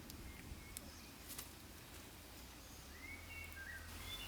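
Faint woodland ambience: a few short bird chirps, one gliding up about three seconds in, with scattered soft clicks and a low steady hum underneath.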